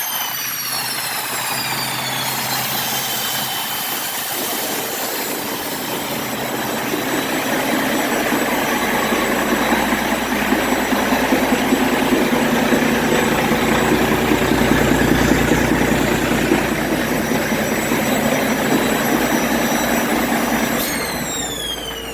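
Cummins X15 inline-six diesel engine on a test run, revved up and held: its rumble grows louder from about a third of the way in, then eases near the end. A high whine falls away at the start, and again after the engine comes off its revs near the end.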